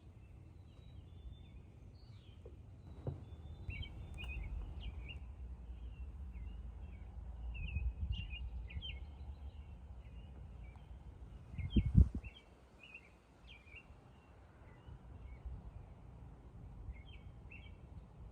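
Small wild birds chirping in short, quick, repeated calls, answering one another, over a low rumble. A single thump about twelve seconds in is the loudest sound.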